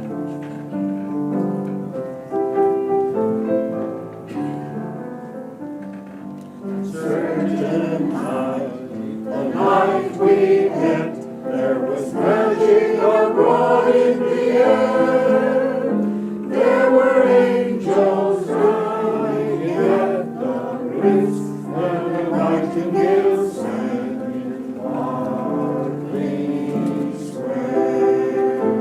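Community choir singing with piano accompaniment, quietly at first and then fuller and louder from about seven seconds in.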